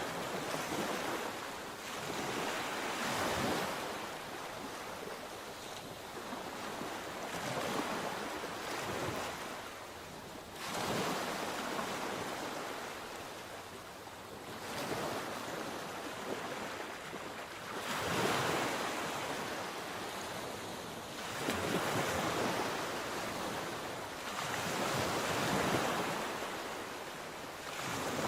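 Sea waves breaking and washing on the shore, the surf swelling and falling back every three to four seconds, with some wind on the microphone.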